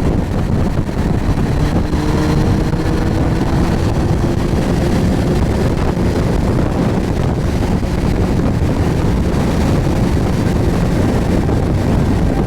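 Suzuki GSX1250FA's inline-four engine running under way, with heavy wind rush over the microphone. The engine note eases slightly in the first few seconds, then holds steady.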